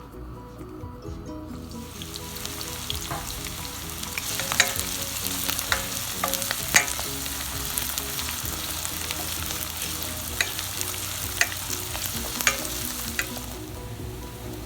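Chicken curry sizzling as it fries in a pan and is stirred, the hiss starting about two seconds in and easing off near the end. A utensil knocks sharply against the pan several times.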